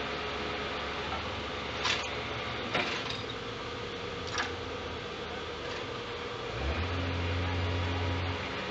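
Steady mechanical running noise of a Scania truck, with a few sharp clicks in the first half and a low steady hum that sets in about two-thirds of the way through and stops shortly before the end.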